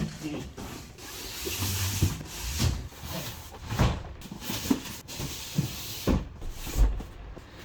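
Boxes and furniture being slid and set down in the cargo area of a rental moving truck: scraping and rubbing with a few dull thumps.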